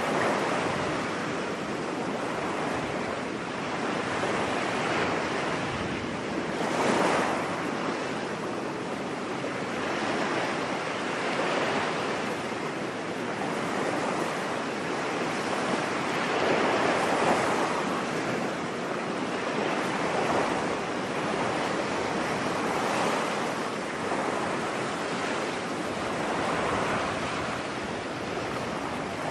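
Ocean waves breaking on a beach: a steady wash of surf that swells and falls every few seconds, with a stronger break about seven seconds in.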